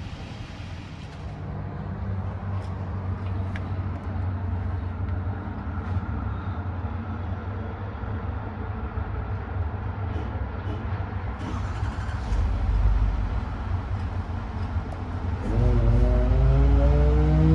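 Engine running steadily with a low rumble. About two seconds before the end it gets louder, and a pitched tone rises and then holds steady at a higher speed.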